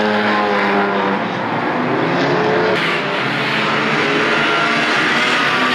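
Engines of several banger race cars running and revving hard together, with the sound changing abruptly about three seconds in.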